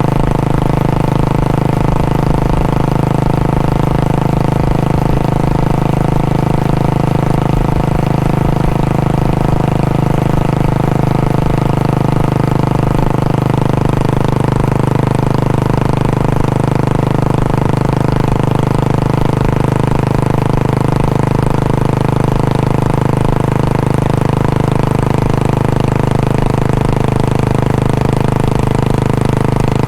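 Royal Enfield Bullet 500's single-cylinder four-stroke engine idling steadily through its exhaust, with an even pitch and no revving.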